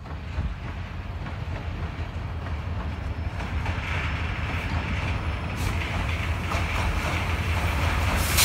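A train approaching, its low rumble growing steadily louder. About halfway in, a high rushing hiss from the wheels joins it, along with a few sharp clicks.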